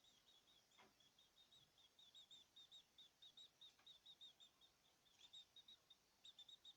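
Faint, rapid series of short, high chirps from caged birds, about four or five notes a second, with a few faint clicks.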